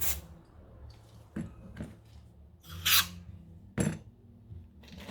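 Small parts of an LPG gas reducer being handled and fitted by hand: a few sharp clicks and a short scraping rustle about three seconds in, over a low steady hum.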